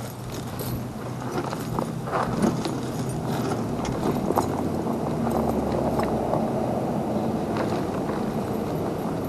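Metal snow chain links clinking and clattering in irregular knocks as the chain is worked onto a snowblower tire, over a steady low hum.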